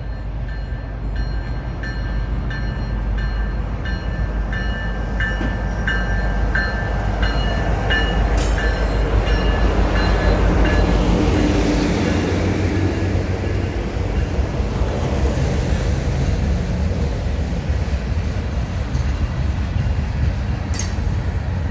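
A train passing close by: a steady heavy rumble of locomotive and rolling cars that builds to its loudest about halfway through, with regular clicking from the wheels over rail joints in the first half. It cuts off suddenly at the end.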